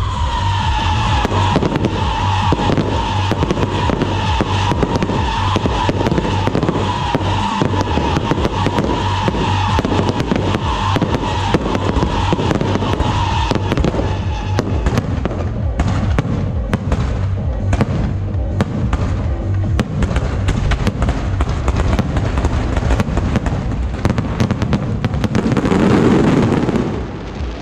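Aerial fireworks going off in rapid succession, dense crackling and bangs, over loud electronic dance music with a pulsing beat. A held high tone runs through the first half, and a louder rushing burst comes near the end.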